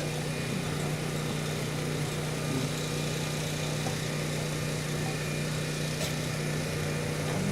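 A steady machine-like hum with an even background noise, unchanging throughout.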